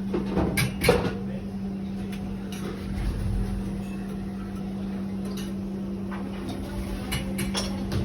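Steady low hum from running equipment, with a quick cluster of clattering knocks about a second in and a few more clicks near the end.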